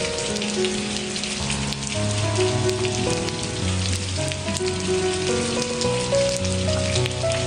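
Steady rain falling, with many small drops pattering, over soft slow music of sustained notes and a low bass line that change about every second.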